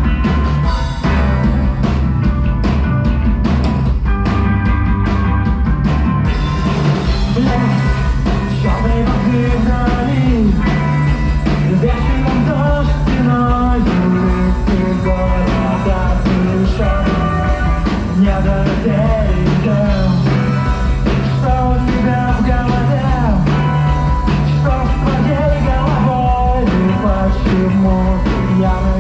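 Live psychedelic rock band playing at full volume: steady drums and bass, with the high end filling out about six seconds in and a sliding-pitch melody line above.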